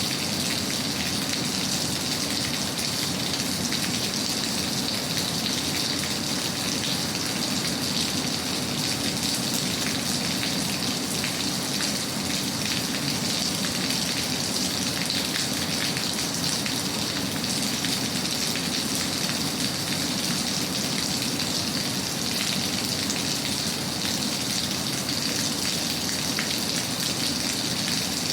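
Steady rain falling, an even hiss with a patter of drops that never lets up or changes.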